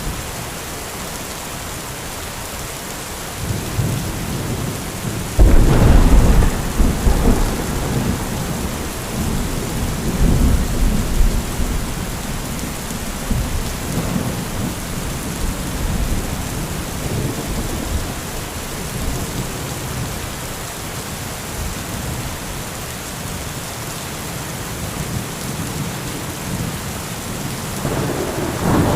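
Heavy, steady rain with thunder. About five seconds in, a sudden loud clap breaks into a long low rumble lasting several seconds, and a further rumble builds near the end.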